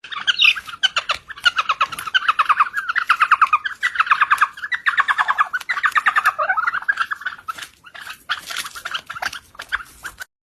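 Birds chirping in rapid trains of repeated notes, about ten a second, growing fainter after about seven seconds and stopping just before the end.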